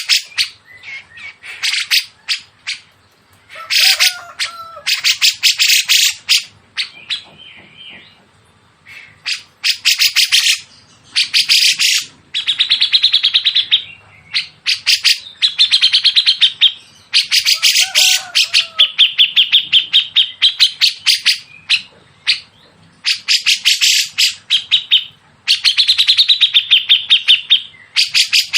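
Songbirds singing harsh, rapid rattling trills in repeated bursts of a second or two, with a few short lower whistled notes mixed in. This is the 'nembak kasar' (rough, shooting) song used as training song for cage birds.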